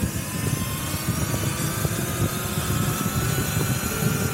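2018 Sur Ron X electric dirt bike under way, its motor's thin whine slowly rising in pitch as it gathers speed, over heavy wind rumble on the microphone.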